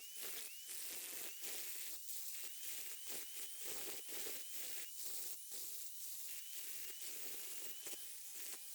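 Flux core wire welder laying a bead on thick steel: a steady sizzling crackle with irregular sharp pops from the arc, the welder's heat set to maximum.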